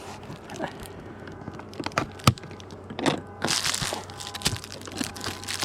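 Beehive parts being handled during an inspection: a series of sharp clicks and knocks, one louder about two seconds in, with a brief rustling scrape past the middle.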